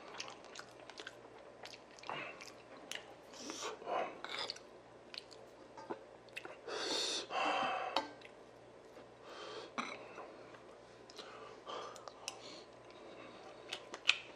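Close-miked chewing and mouth sounds of a person eating bibimbap, with a spoon clicking and scraping in a bowl. The scrape is loudest about seven seconds in, as the spoon scoops rice.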